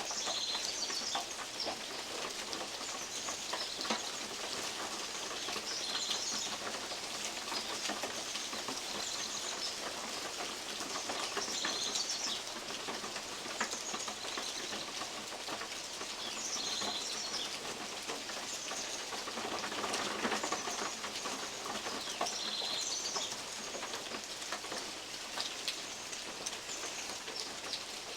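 Steady rain in the trees with big drops falling from oak leaves and tapping on a metal roof. A bird gives a short high call every two to three seconds.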